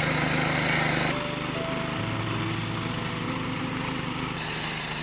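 Small engine running steadily, easing to a slightly lower, quieter note about a second in.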